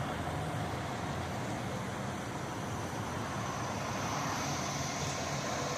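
Heavy truck engine running steadily, with a faint high whine coming up near the end.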